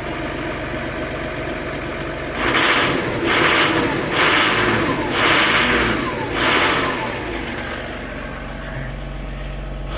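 V6 TDI diesel engine idling, then revved in five short throttle blips in quick succession from about two and a half seconds in, before settling back to idle. The engine is still cold, only a minute after starting following a week standing, and has a tractor-like diesel sound.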